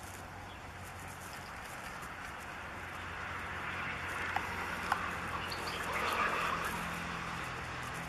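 Faint outdoor ambience: a soft hiss that swells and fades through the middle, with two short bird chirps about halfway through.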